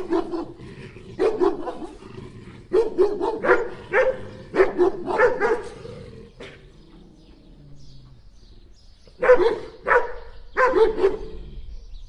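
A dog barking: a run of short barks in quick succession, a pause of about three seconds, then four more barks near the end.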